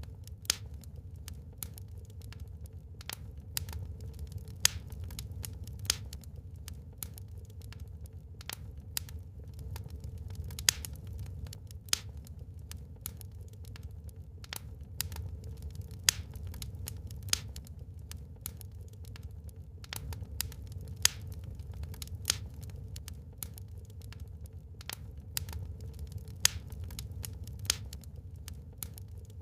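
Wood fire burning in a fireplace: irregular sharp crackles and pops, several a second, with a few louder snaps, over a steady low rumble.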